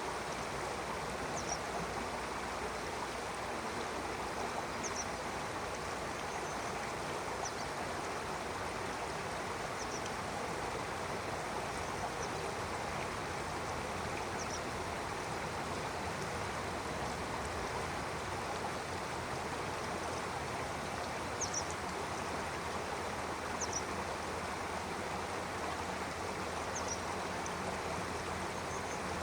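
Stream water flowing steadily over rocks, with a small bird giving short high chirps every two or three seconds.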